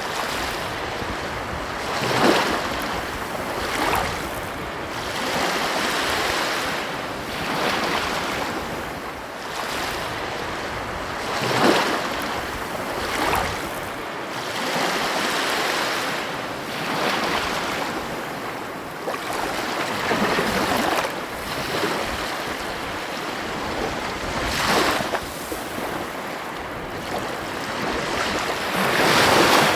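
Ocean waves breaking and washing up on a beach, swelling and falling every few seconds, with wind on the microphone.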